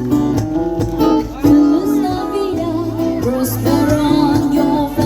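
A girl singing a song over guitar-led backing music.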